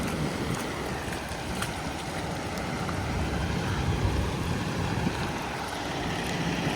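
Steady rain falling on a semi truck's cab, an even hiss with a low rumble underneath.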